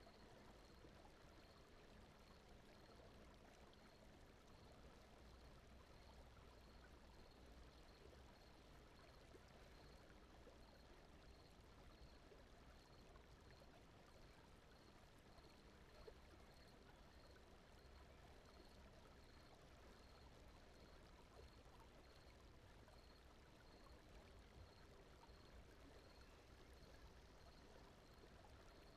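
Faint, steady brown noise, a soft even rush without words, with a faint high pulse repeating about once or twice a second throughout.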